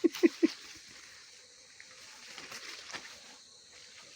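Insects trilling in a steady high hiss. A few short voice sounds, close together, come right at the start.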